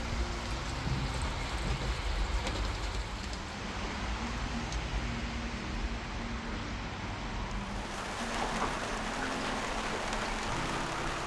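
Steady rain falling, an even hiss with scattered drop patter, with soft background music underneath.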